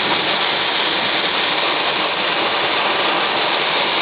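Heavy wind-driven storm rain beating on a parked vehicle, a steady, dense noise.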